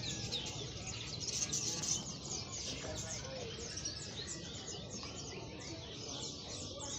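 Dense chorus of many small caged songbirds chirping all at once, a constant overlapping stream of short high tweets over a low background rumble.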